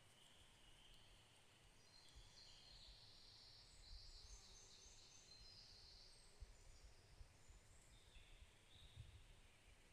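Faint, distant birdsong: high trilling phrases, strongest from about two to six and a half seconds in and again briefly near the end, over a low rumble.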